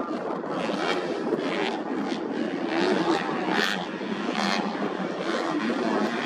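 Engines of modified underbone (bebek) grasstrack racing motorcycles, several running at once and revving, with a few brief louder surges.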